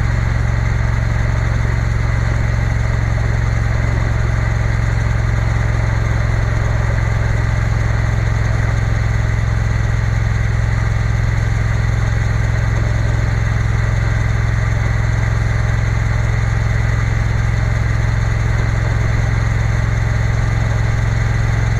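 Triumph Bonneville T120 motorcycle engine running steadily at an unchanging pitch, with an even rush of noise above it.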